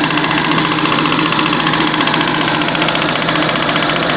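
Sea-Doo 260 personal watercraft engine running steadily at idle with a rapid clattering in it. The owner cannot place the fault and wonders whether something is leaking.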